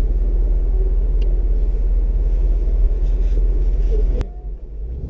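Ford Mustang on the move, a steady low rumble of engine and road noise heard inside the cabin. It cuts off abruptly about four seconds in, leaving a quieter sound.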